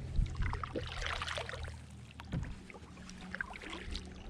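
Water splashing and dripping against a canoe, with small knocks and ticks, busiest in the first couple of seconds.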